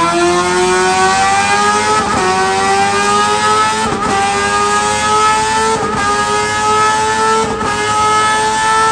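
Sportbike engine running hard at high revs on a motorcycle dyno, its pitch climbing slowly through a full-throttle pull. The note stutters briefly about every two seconds.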